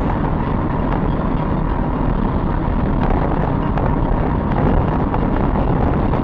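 Steady road and engine noise of a moving car, a continuous rumble without any impact.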